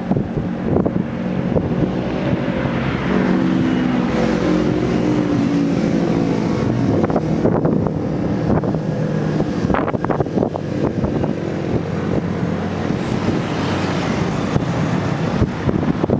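Airbus A330 airliner landing: continuous jet-engine and airflow noise with steady engine tones, and a run of sharp knocks and rattles about halfway through.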